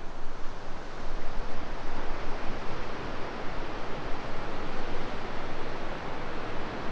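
Rushing river water: a steady, even roar of noise.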